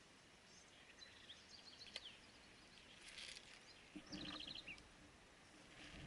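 Small birds chirping in quiet outdoor surroundings: scattered short high chirps, then a quick trill of about seven notes a little past four seconds in. A short burst of noise comes about three seconds in.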